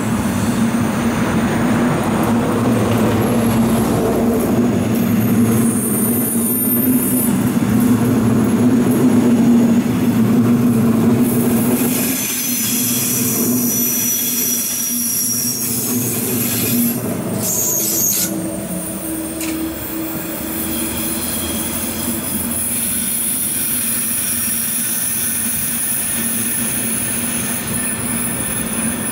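Double-deck regional passenger train running past on a curve, with a steady low hum from the train. Wheels squeal high-pitched for several seconds about twelve seconds in, then the train noise gives way to steady road traffic.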